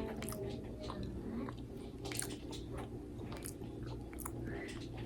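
A person chewing a mouthful of breakfast food, with a run of small irregular mouth clicks.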